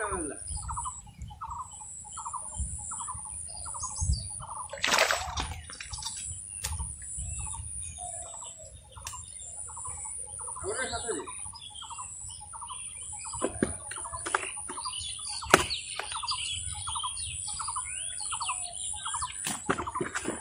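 A bird calling one short note over and over, about twice a second, over a steady high whine. A few sharp knocks or splashes come through, the loudest about five seconds in.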